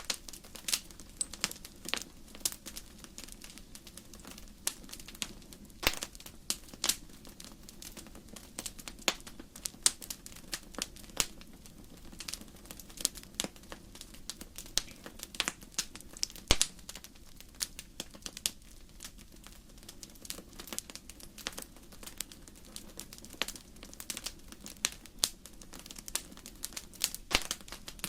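Wood fire in a fireplace crackling: irregular sharp snaps and pops over a steady low rumble of the burning fire.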